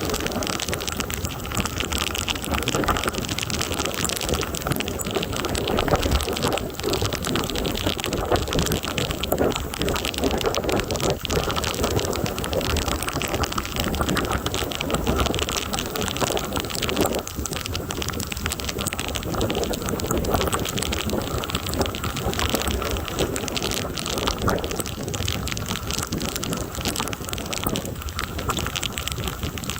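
Heavy thunderstorm rain pouring steadily, with a dense patter of drop impacts.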